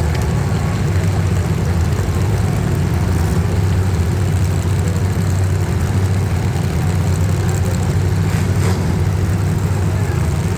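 Engines of several street stock demolition derby cars running together: a loud, steady low drone.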